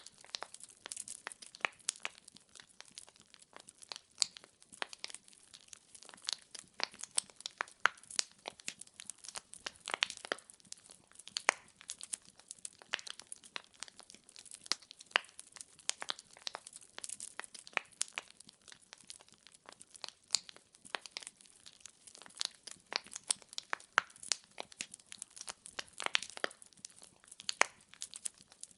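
Wood fire in a fireplace crackling, with many sharp irregular pops and snaps of burning logs over a faint steady hiss.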